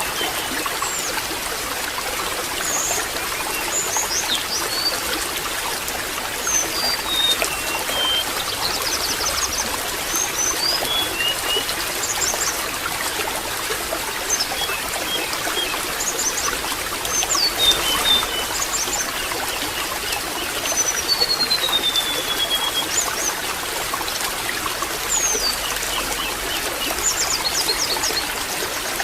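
Water trickling steadily, with small birds chirping and whistling throughout in short high calls, and one longer falling whistle about two-thirds of the way through.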